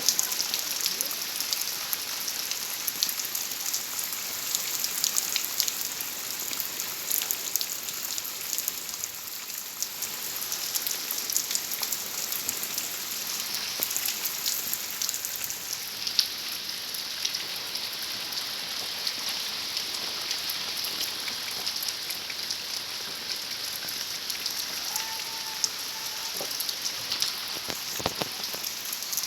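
Steady rain falling, a constant hiss full of quick individual drop taps.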